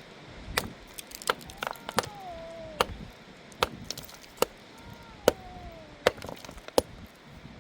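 Axe chopping firewood: about nine sharp strokes at a steady pace, close to one a second. Twice between strokes a whistle-like tone falls in pitch over most of a second.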